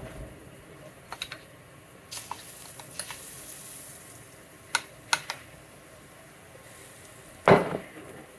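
Kitchen utensils and cookware clattering: scattered light clicks and taps, then one louder knock near the end.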